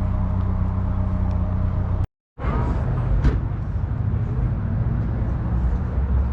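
A car engine idling steadily in a low hum. About two seconds in the sound cuts out briefly and resumes as a rougher, uneven low engine rumble, with a short sharp knock about a second later.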